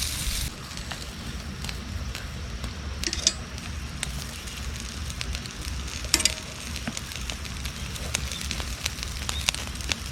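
Campfire crackling, with scattered sharp pops over a steady low rumble; two louder pops come about three and six seconds in.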